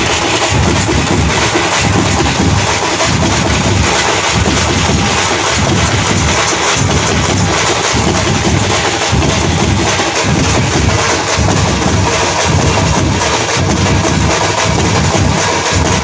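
Loud drumming music with a heavy, continuous beat, typical of the nasik dhol and shinkari melam drum troupes at a Kerala festival procession.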